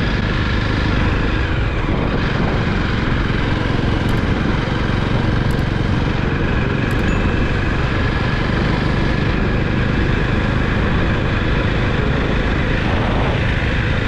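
Motorcycle engine running steadily while riding at a constant speed, under heavy wind and road noise.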